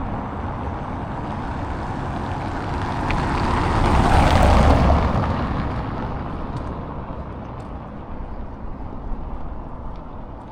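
A vehicle passing close by: a rushing noise that swells to its loudest about four to five seconds in, then fades away.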